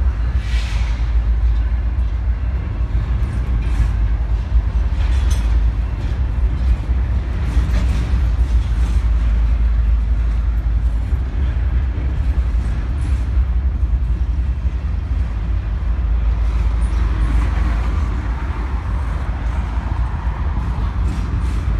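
BNSF double-stack intermodal freight train rolling past, a steady heavy rumble of the railcars with a few sharp clanks.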